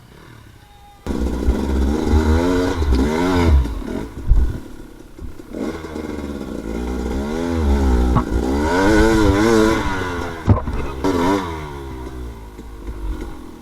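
Dirt bike engine revving up and down again and again as the throttle is worked. It starts suddenly about a second in and fades near the end.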